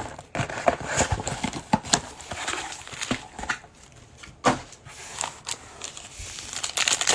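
Trading card packs and cards being handled: scattered clicks, taps and crinkling of pack wrappers, with a sharper click about four and a half seconds in.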